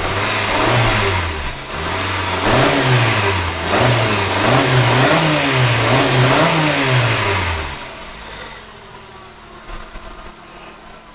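Car engine revving up and down repeatedly for about eight seconds, then dropping back to a quieter idle. It is the freshly installed engine of a flood-damaged 2013 Hyundai Sonata, running strongly after being started by jumping the starter.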